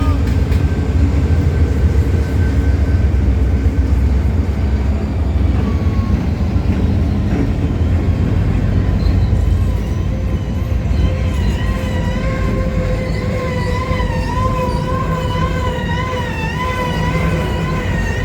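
Ferromex freight train running past with a loud, steady low rumble. About halfway in, a high wavering squeal joins it and goes on to the end.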